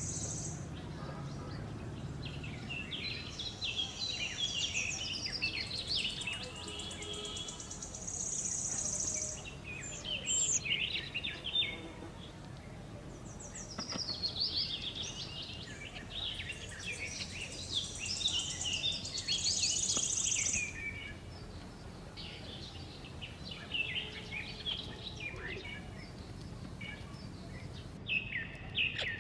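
Several wild birds chirping and chattering in busy clusters of short, varied calls, with a high, steady buzz coming in a few bursts of a second or two.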